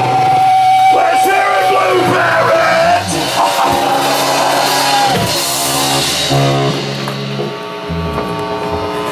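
Live rock band playing loud, with distorted electric guitar and drums.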